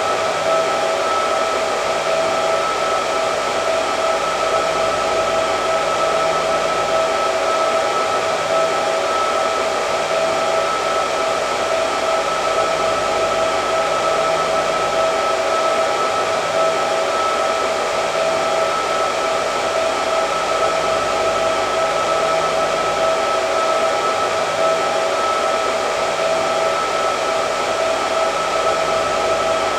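Hair dryer running steadily: a constant rush of air with an unchanging motor whine.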